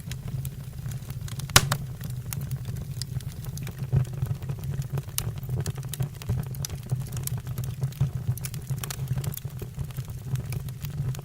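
Wood fire in a fireplace crackling: a steady low rumble of burning with frequent sharp pops and snaps, one loud pop about a second and a half in.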